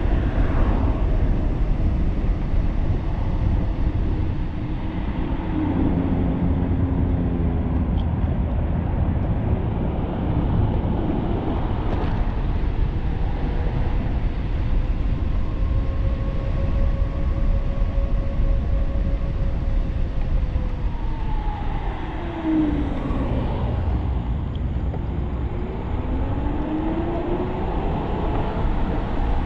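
Wind rushing over the microphone of a 1500-watt e-bike with a Leaf hub motor kit at riding speed. The motor's thin whine holds steady for a while, falls in pitch about 21 seconds in, then rises again.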